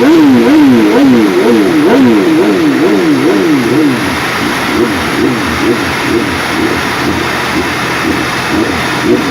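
BMW S1000 superbike's inline-four engine revved repeatedly through its exhaust, the pitch rising and falling about twice a second. About four seconds in it drops in loudness and the revs become shorter and less regular.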